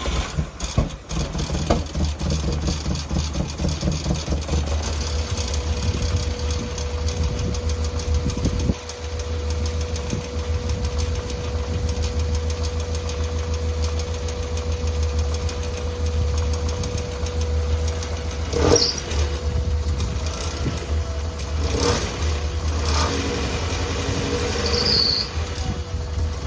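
Mazda Miata four-cylinder engine running steadily at idle with no body fitted, after sitting unused for over a year. A steady faint whine joins about five seconds in, and a few short clatters come late on.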